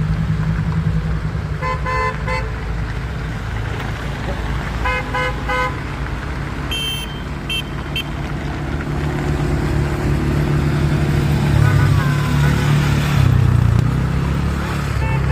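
Train engine running with a steady low drone while its horn is sounded in two groups of short toots, about two and five seconds in, followed by a few short high beeps; the engine grows louder in the second half.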